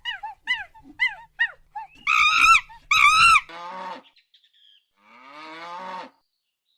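A run of animal calls: short falling yelps about twice a second, then two loud pitched calls about two and three seconds in, then two harsher, rasping calls.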